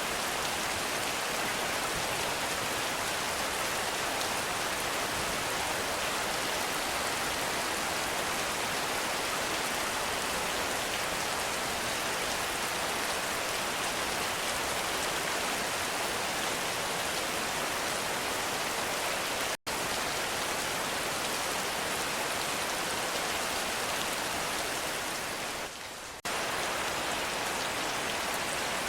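Heavy rain falling steadily: a dense, even hiss of many drops. It cuts out for an instant about two-thirds of the way through and dips briefly a few seconds later before carrying on.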